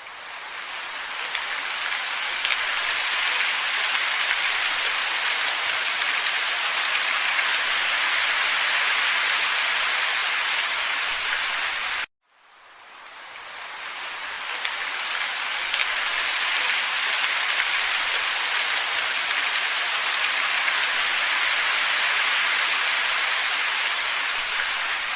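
Steady hiss of a looped wind ambience track, even and without gusts or distinct drops. It cuts out abruptly about halfway through and fades back up over a couple of seconds as the loop restarts.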